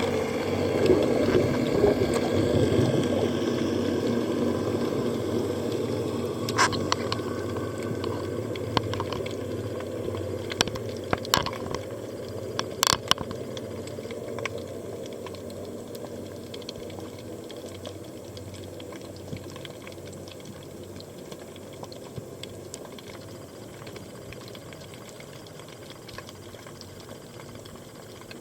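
Muffled water noise heard underwater during a free dive, loudest at first and fading steadily. A few sharp clicks come through around the middle.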